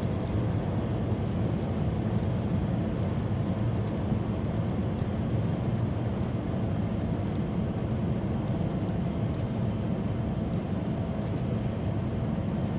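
Steady road and engine noise inside a semi-truck's cab at highway speed: an even low rumble with no break. A faint high whine slowly falls in pitch.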